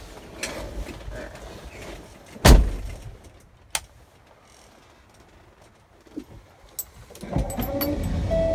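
Handling inside a truck cab: one heavy thump about two and a half seconds in, then a sharp click. Near the end come rustling and a run of clicks, and a steady electronic tone starts just before the end.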